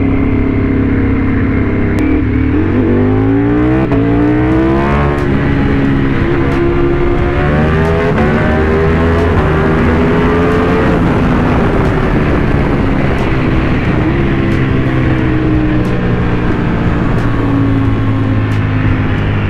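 Motorcycle engine under way: it revs up through a couple of gears about two to five seconds in, then runs on at speed, its note rising and falling gradually.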